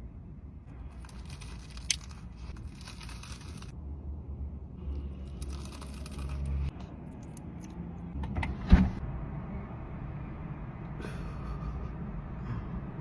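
Rustling and handling noises inside a car over a steady low rumble, with a sharp click about two seconds in and a louder knock near nine seconds.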